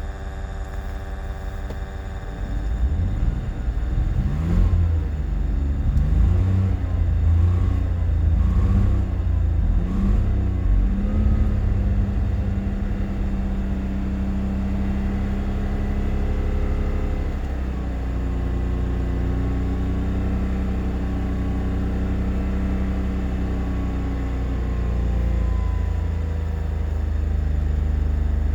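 BMW Z3 2.2i's M54 straight-six engine, which has a misfire, idling and then revved several times, its pitch rising and falling with each blip. It is then held steady at raised revs for an emissions check.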